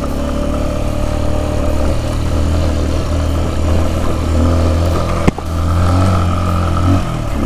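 Kawasaki KLX150's single-cylinder four-stroke engine running steadily under way on a gravel dirt road, with one sharp knock a little past the halfway point. The engine note drops near the end.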